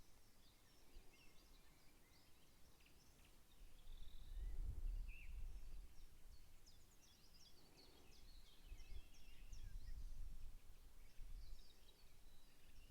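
Small birds chirping and singing, many short high calls overlapping, with a low rumble swelling about four seconds in and again about nine seconds in.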